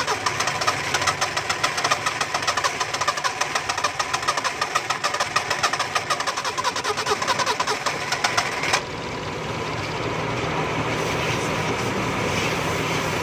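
A car's four-cylinder petrol engine is cranked on its starter motor for about nine seconds, a fast, even churning, then catches and settles into a steady idle. The long crank is a hard start after water got into the ignition during an engine wash.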